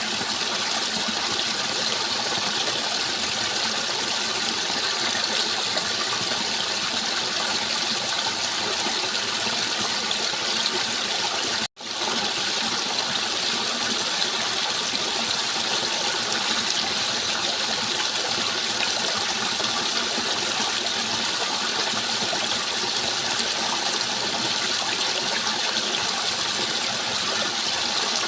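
Steady rushing water, an even, unbroken wash of noise. It cuts out for a split second about twelve seconds in and comes straight back, an edit in the recording.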